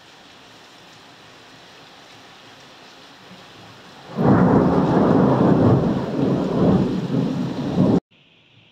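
Thunderstorm: steady rain falling, then about four seconds in a sudden loud clap of thunder that rumbles on for about four seconds and is cut off abruptly.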